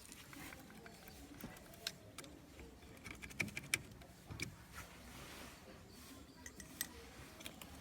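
Scattered light clicks and taps of hand tools and small parts being handled, a few in quick succession about halfway through.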